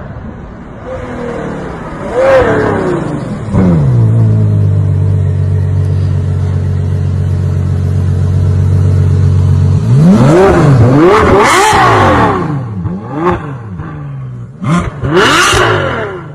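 Stunt-show car engine revving: a rev about two seconds in, then held at a steady high speed for about six seconds, then a series of quick sharp revs up and down.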